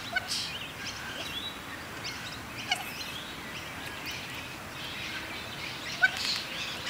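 Wild birds calling and chirping, with many short calls scattered through and two slightly louder ones, the first near the middle and the second about six seconds in, over a steady outdoor hiss.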